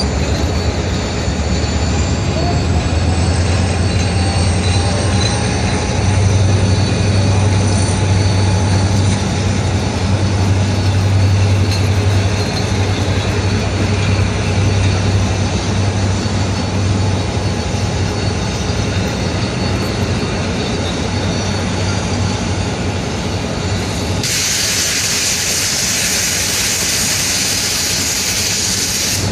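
Two diesel locomotives, one a Henschel, running at the head of a passenger train with a steady low engine drone and a faint rising whine early on. A loud hissing rush comes in for the last few seconds.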